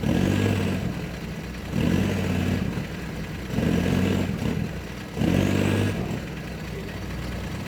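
Mini truck's engine revving in four short bursts about two seconds apart, then settling to a steady idle near the end, as the truck tugs again and again on a buckthorn tree whose roots hold.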